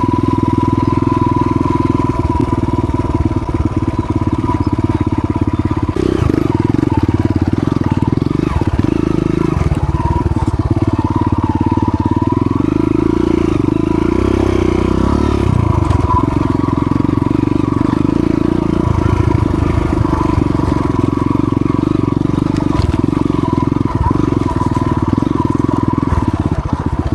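Dirt bike engine running loud and steady, its pitch shifting only a little.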